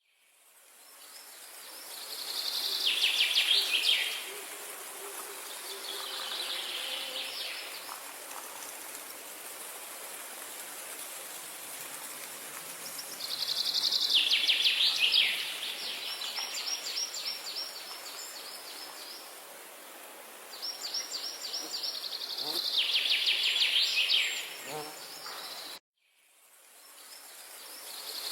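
Songbirds singing rapid, repeated trills over a steady outdoor hiss. The sound fades in at the start, cuts off abruptly about two seconds before the end, and fades back in.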